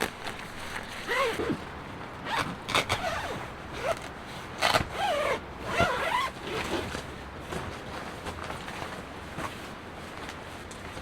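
Zipper pulled in several short strokes, each a brief rising or falling whir, over the first two-thirds; then only a steady low background.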